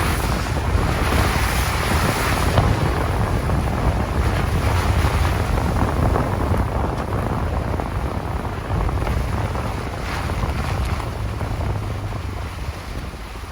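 Wind in a rainstorm buffeting the microphone: a steady rushing noise with a deep rumble, easing slightly near the end.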